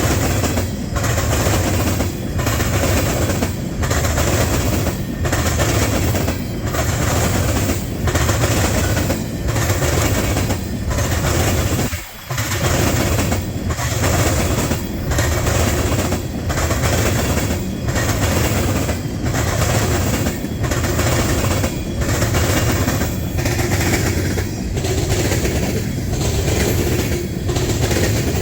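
Freight train cars rolling past close by, the wheels clattering in a steady rhythm of about one beat a second as each car goes by.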